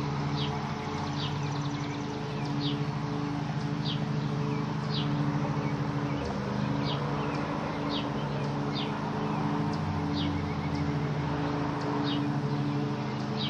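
A steady low drone of several fixed tones runs throughout. Over it, a bird gives short high chirps about once a second.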